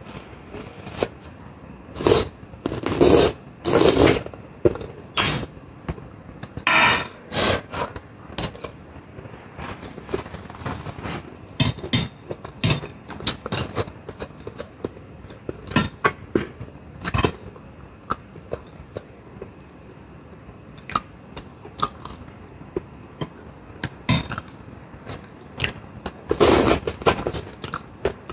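Close-up eating sounds: chewing and mouth noises on steamed vegetables, with a metal fork clicking and scraping on a ceramic plate. The chewing is loudest about two to four seconds in and again near the end.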